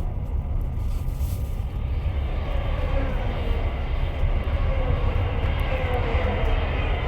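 Moving train on the rails: a steady low rumble, with a whine that swells from about three seconds in and slides slightly down in pitch.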